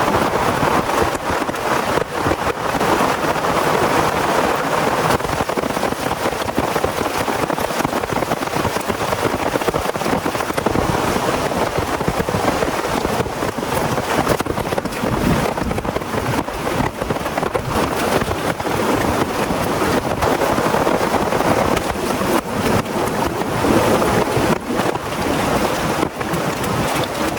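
Heavy rain falling hard and steady, a dense, unbroken hiss.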